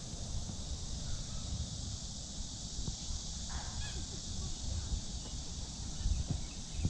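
Outdoor park ambience: a steady high-pitched drone, typical of summer insects, over low wind rumble on the microphone. A single brief bird call comes about three and a half seconds in.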